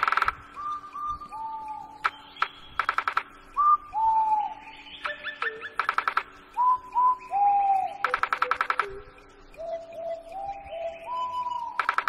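Bird calls: many short, clear whistled notes that slide downward, broken every few seconds by a loud rapid croaking rattle.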